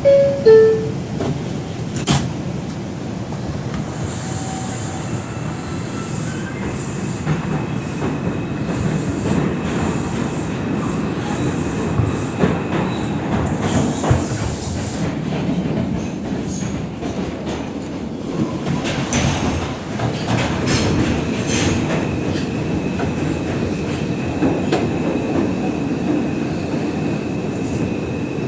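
R142 subway car's two-note door chime, a higher tone then a lower, then the train under way: a steady rumble of wheels on rail with clicks over rail joints and passing wheel squeal.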